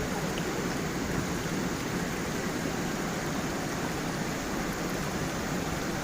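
Stream water flowing and splashing over a small waterfall, an even, steady rush.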